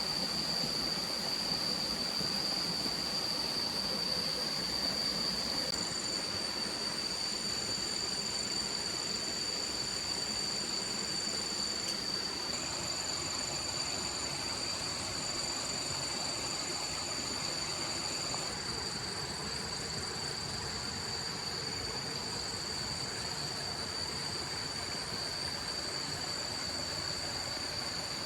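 Steady rush of flowing stream water, with a constant high-pitched tone held over it throughout.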